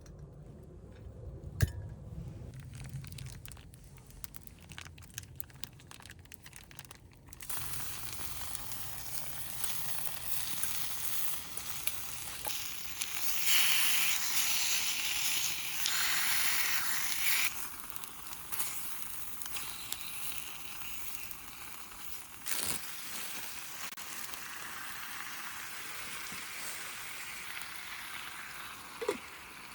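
Sauce yakisoba frying on an iron griddle: a few light clicks, then a steady sizzle starts about a quarter of the way in and grows loudest for a few seconds around the middle.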